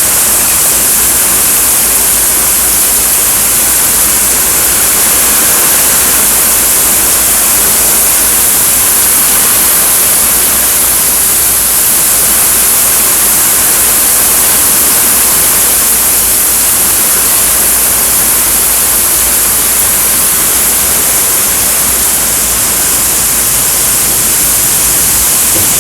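Heavy rain and strong wind of a severe thunderstorm: a loud, steady hiss of pouring rain, with wind rumbling on the microphone.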